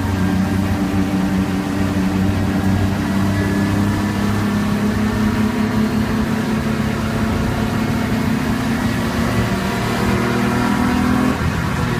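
BMW E36 328i's 2.8-litre straight-six engine running under acceleration, heard from inside the cabin as a steady, even engine note. Near the end the note changes suddenly as the car comes off the throttle.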